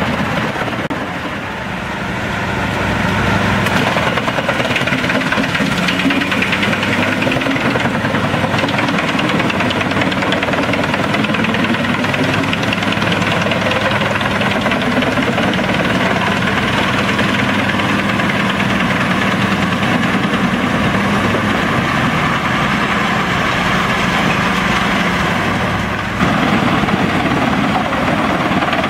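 Drum chipper driven by a Scania DC16 eight-cylinder diesel engine, running steadily under load while chipping hard chestnut wood. The sound dips briefly a couple of seconds in and steps louder near the end.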